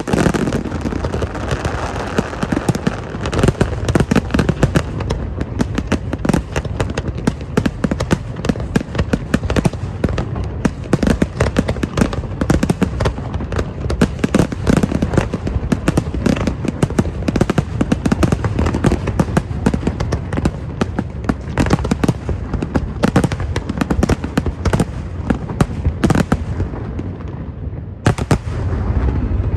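Fireworks display: a dense, continuous barrage of sharp bangs and crackles over a steady low rumble.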